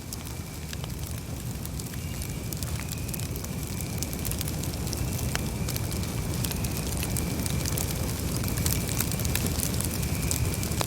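Campfire burning: scattered crackles and snaps of burning wood over a low, steady rumble of the flames, with a faint, thin whistling tone running through.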